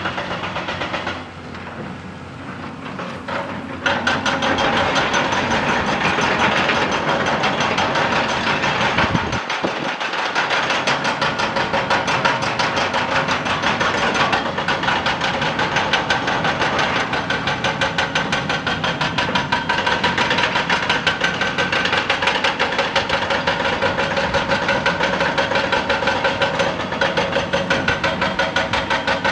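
Excavator-mounted hydraulic rock breaker hammering rock in a rapid, steady run of blows, starting about four seconds in.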